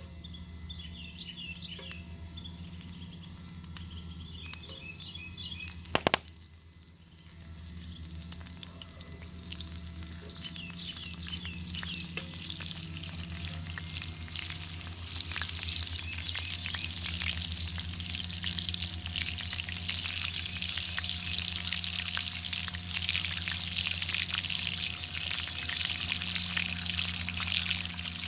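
Bacon frying over a fire: a dense sizzle with many crackles and pops builds up from about eight seconds in and grows louder. A sharp knock comes about six seconds in, and faint bird chirps are heard early on.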